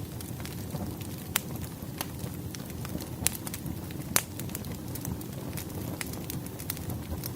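Campfire crackling: a steady low rumble of burning wood with irregular sharp pops, the biggest a little after one second, after three seconds and after four seconds.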